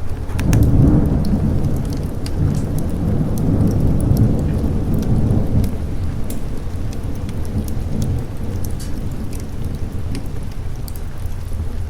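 A roll of thunder over steady rain. The low rumble swells just after the start, stays loud for several seconds, then slowly dies away while the rain continues with scattered sharp ticks.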